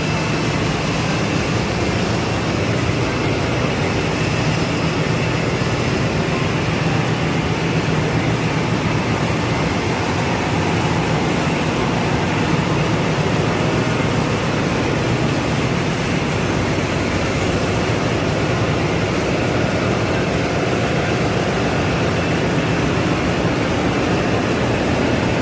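Loud, steady machinery noise of a ship's engine room in operation, a constant low hum with a thin steady high whine on top.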